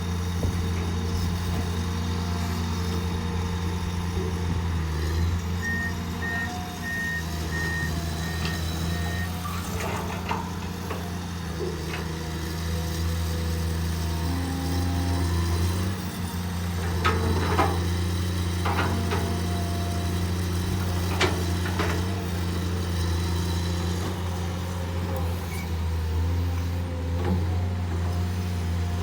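Hydraulic excavator diesel engines running steadily at work, with a short series of about six evenly spaced electronic beeps around a quarter of the way in and a few sharp knocks later on.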